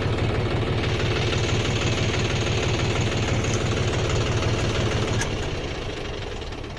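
Kubota combine harvester's diesel engine running steadily, growing quieter over the last second and a half.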